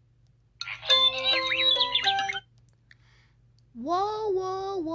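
A short electronic jingle of bright, bell-like chiming notes lasting under two seconds. A drawn-out, gliding sung voice starts about a second before the end.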